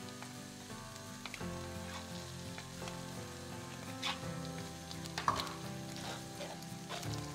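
Chopped shallots and tomato paste sizzling in olive oil in a non-stick frying pan, with a spatula working the paste in and a few louder crackles about four and five seconds in.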